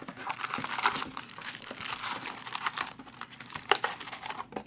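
Plastic shrink-wrap crinkling and tearing with a run of small crackles as a sealed box of hockey cards is unwrapped and opened.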